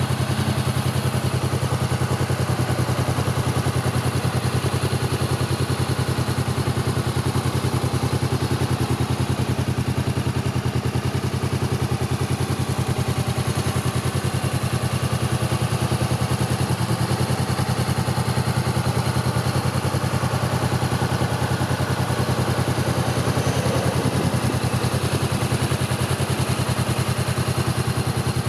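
Honda CBR500R parallel-twin engine idling steadily through an Akrapovic slip-on exhaust.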